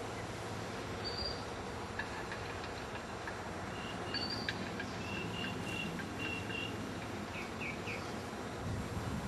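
Small birds giving short, high chirps, scattered through, with a run of quick paired notes in the middle, over a steady background noise.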